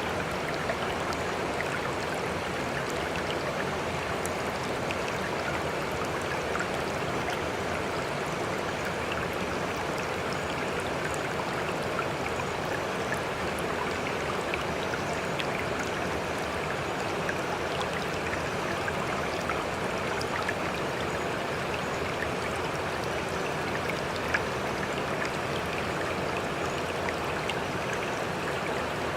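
Sea water washing steadily, an even rush with small ticks and splashes scattered through it. It does not swell and fall away like breaking waves.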